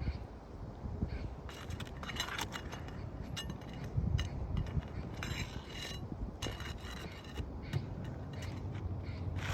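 Hands working with tools on a mechanical part: irregular clicks, scrapes and short squeaky metal-on-metal rubs.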